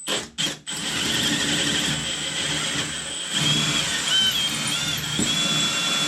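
Power drill starting with a couple of short bursts, then running steadily as it bores, with a high wavering squeal from the bit.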